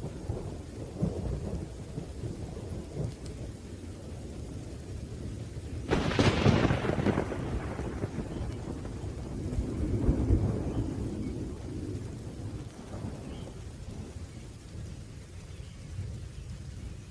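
Thunderstorm: steady rain under low rolling thunder. A sharp thunderclap about six seconds in fades into rumble, and a second swell of rumble comes around ten seconds.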